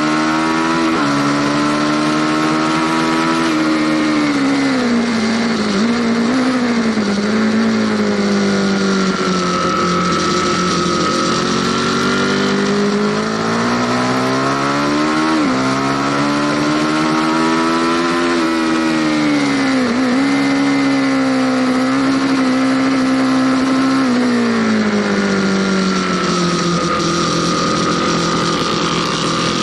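Aprilia Tuono Factory motorcycle engine under way, its pitch climbing and falling as the rider works the throttle and gears, with a sudden drop in pitch near the middle. Wind rush runs under the engine.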